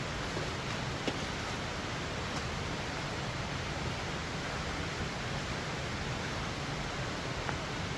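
A steady rushing noise with no pitch or rhythm, with a light click about a second in.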